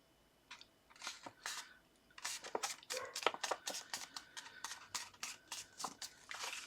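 A sheet of card stock being handled and folded in half by hand: scattered paper rustles, then from about two seconds in a quick run of scrapes and light taps as the fold is pressed.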